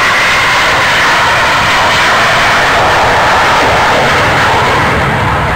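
Loud, steady jet noise from F-5 fighter jets climbing away just after takeoff, the sound's pitch dipping slightly midway as they pass.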